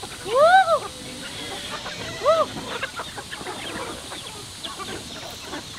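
Chickens calling: one longer arched squawk that rises and falls in pitch about half a second in, and a shorter one just after two seconds, over faint scattered chirping.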